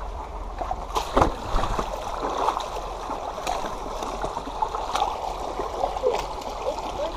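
A creek running and gurgling over rocks by a small waterfall, with a few sharp knocks mixed in, the strongest about a second in.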